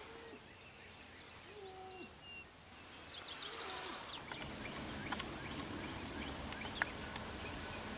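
Wild birds calling: a few short low calls and high chirps with a fast high trill. From about four seconds a steadier outdoor hiss follows, with faint chirps and a sharp click near the end.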